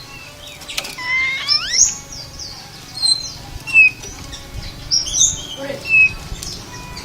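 Oriental magpie-robin (kacer) singing: a varied run of whistles, chirps and squeaky notes, including rising slurred whistles about a second in, with several loud notes spaced through.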